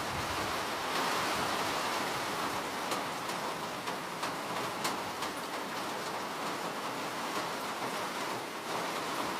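Steady rain falling as an even hiss, with scattered sharp drop ticks a few seconds in.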